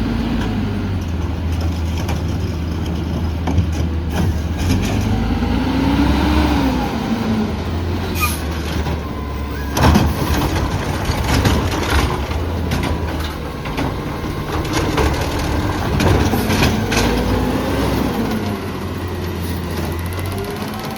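Garbage truck's diesel engine running and revving twice to drive its hydraulics, the pitch rising and falling each time, with knocks and a loud bang about ten seconds in as a cart is emptied.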